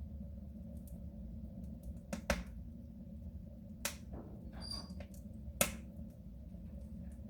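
Wood fire burning in a soapstone stove: a few sharp crackles and pops, the loudest a little after two seconds and about five and a half seconds in, over a steady low rumble.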